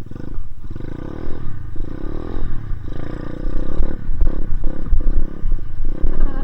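Dirt bike engine revving up and down repeatedly under throttle, with heavy wind rumble on the microphone.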